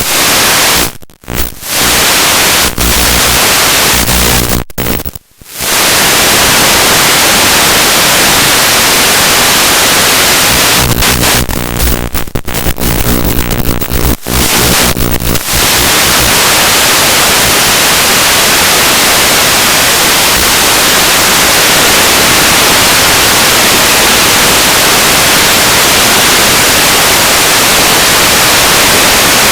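Loud static hiss from an analog FPV video receiver's audio channel. It cuts out briefly twice in the first few seconds and turns into a stuttering buzz for a few seconds near the middle, then settles into steady hiss.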